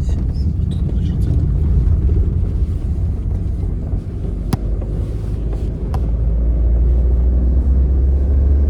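Vehicle driving, a steady low rumble of engine and road noise with a couple of sharp knocks in the middle. The rumble grows heavier near the end.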